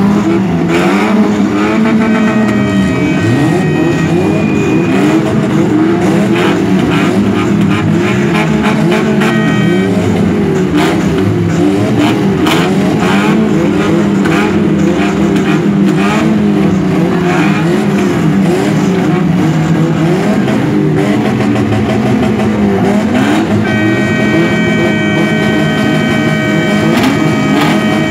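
Car engines revving up and down over and over, with a string of firecrackers crackling. A steady high horn-like tone sounds twice, early and again near the end.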